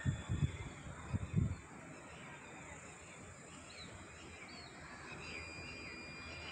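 Wild birds calling outdoors: scattered short chirping notes and a long, steady whistled note near the end, over a constant background hiss. A few low thumps in the first second and a half.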